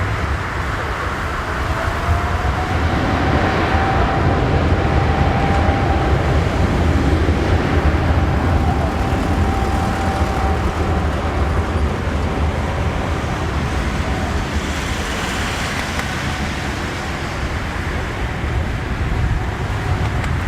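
Boeing 777-200ER's jet engines heard as a loud steady rumble with a thin whine that rises slightly in pitch about two seconds in and fades out later; the sound is loudest in the first half and eases off toward the end.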